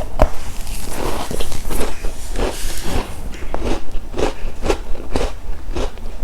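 Close-miked chewing of a crunchy chocolate snack: steady, regular crunches about two a second.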